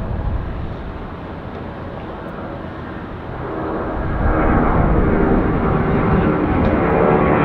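Jet airliner engines: a low rumble that swells into a loud, steady roar about four seconds in.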